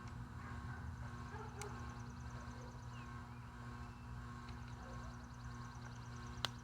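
Two sharp clicks, a small one early and a louder one near the end, as a cable lock clip is pried at, over a steady low hum and a faint rapid high ticking.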